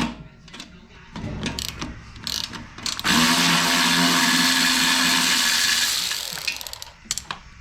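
Power drill driving a socket on an extension, backing a screw out of the wood chipper's housing: a few clicks and short tool noises, then the drill runs steadily for about three seconds and winds down.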